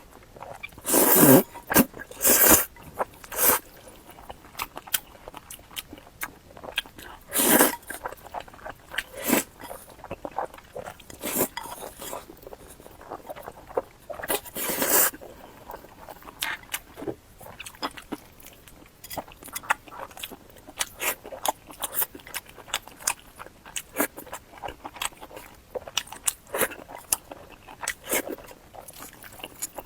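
Close-miked eating sounds: bites and chewing, a steady run of short mouth clicks broken by a few louder crunchy bites.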